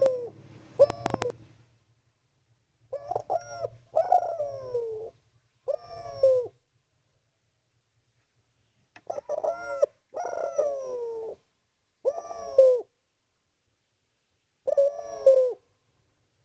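Spotted dove cooing in repeated phrases. Each phrase is a few short notes followed by a longer coo that falls in pitch, with pauses of a second or more between phrases. This is the persistent calling kept birds use to draw an answer from a rival.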